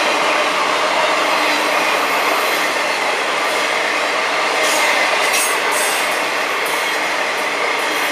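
Intermodal freight cars carrying trailers and containers rolling past on the rails: a steady rumble and rattle of wheels and flatcars. There are a few brief high-pitched wheel squeaks about halfway through.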